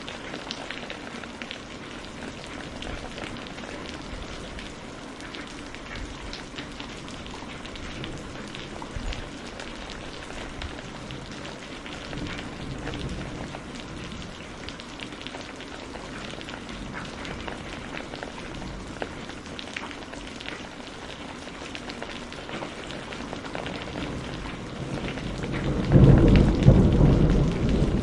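Steady rain falling, with a patter of individual drops. About two seconds from the end a loud, low rumble of thunder sets in.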